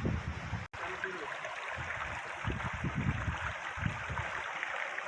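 Creek water running steadily, with irregular low buffeting of wind on the microphone.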